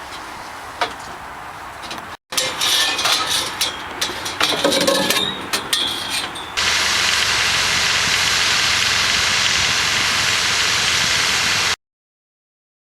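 Pezzolato mobile sawmill running: a stretch of irregular knocking and clattering, then a loud steady machine noise that cuts off suddenly near the end.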